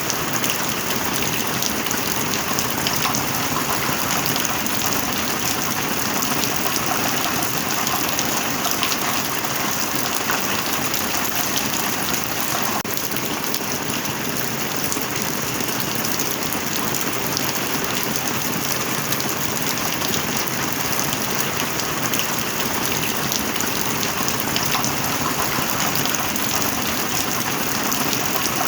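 Heavy rain falling steadily: a dense, even hiss of rainfall with countless single drop hits, unchanging throughout.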